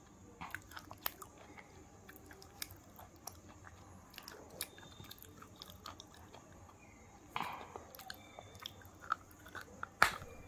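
Close-up chewing of White KitKat wafer fingers, with scattered small crisp crunches of the wafer throughout. There is a louder burst of crunching about three-quarters of the way in, and a sharp crack as a fresh bite snaps off a finger near the end.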